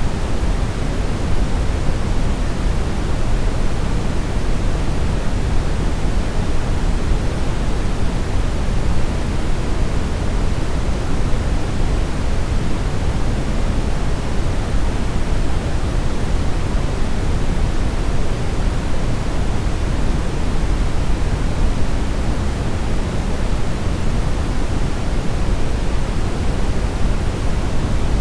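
Steady brown noise: an even, unchanging rushing hiss weighted heavily toward the low end, with no tones or events.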